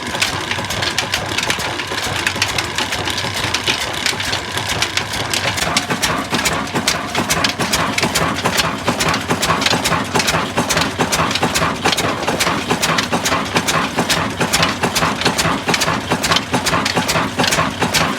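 Old black Ruston oil diesel engine running steadily, its firing beats coming in an even rhythm that grows sharper about six seconds in.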